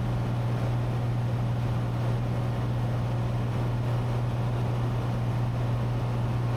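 Steady in-cabin drone of a Cessna 182T's six-cylinder Lycoming IO-540 engine and propeller in flight, with airflow noise, unchanging throughout.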